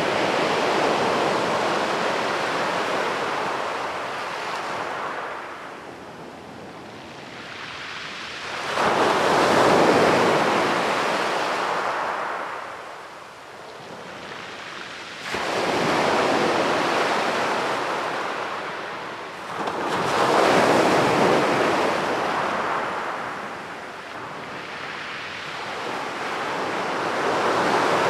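Sea waves breaking on a beach, one after another. Each wave rushes in with a sudden surge, then washes back and fades, about five times over the stretch.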